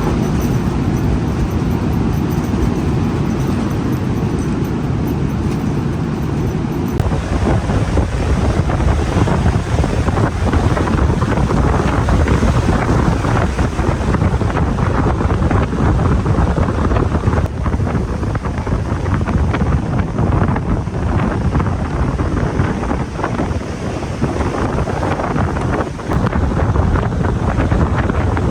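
Strong wind blowing hard across the microphone, a loud rushing noise heaviest in the low end, getting fuller and brighter about seven seconds in.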